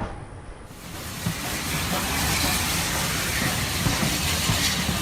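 Model steam train running on the track with a steady hiss, which swells up about a second in over a low, uneven rumble.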